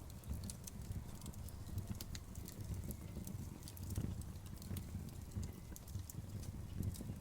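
Wood fire burning, with frequent sharp crackles and pops scattered unevenly over a low, steady rumble.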